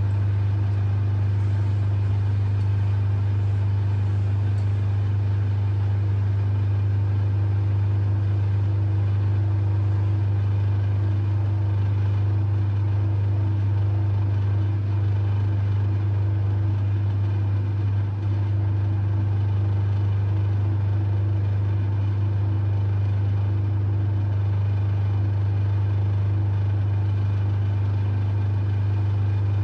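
LG F1222TD washing machine running with a loud, steady low hum that does not change.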